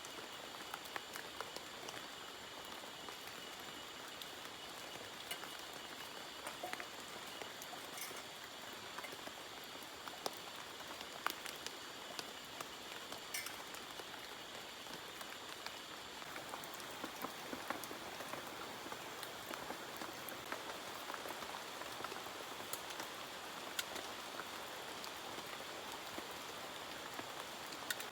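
Steady rain falling and pattering, with scattered sharper drops throughout. A faint steady high-pitched whine runs underneath.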